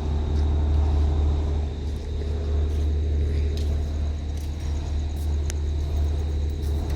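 Steady low drone of heavy machinery running without change, with a thin steady high whine above it and a few faint clicks.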